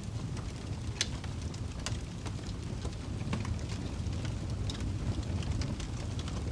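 Wood fire crackling in a fireplace: irregular sharp pops and snaps over a steady low rumble of the flames, with one louder pop about a second in.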